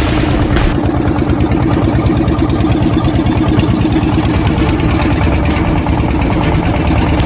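Motorbike engine running steadily at an even speed.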